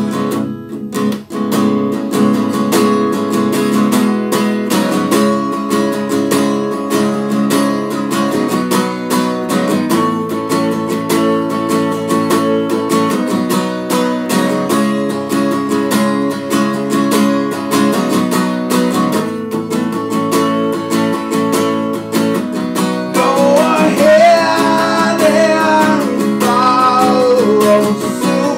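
Acoustic guitar strummed steadily through an instrumental break in a song. A wavering melody line comes in over the chords about 23 seconds in and carries on nearly to the end.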